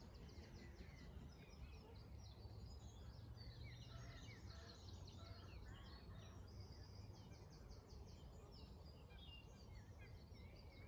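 Faint birdsong from several small birds: scattered chirps, with a quick trill of repeated notes about six seconds in, over a low steady hum.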